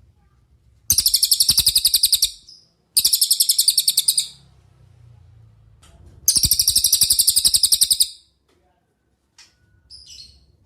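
Cililin songbird singing three fast, high-pitched trills, each a rapid run of about ten notes a second lasting one to two seconds, followed by a faint short call near the end.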